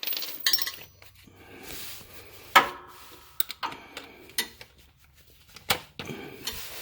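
Steel sockets clinking and clicking as a socket is swapped on a wrench, with several sharp metal knocks. The loudest knock comes about two and a half seconds in.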